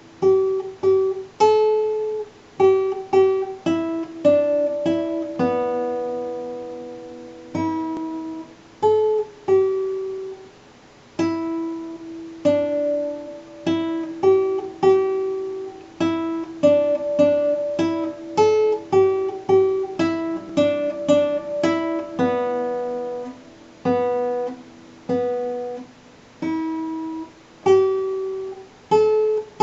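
Acoustic guitar picked at an unhurried, uneven pace, single notes and small chords each ringing out and fading before the next.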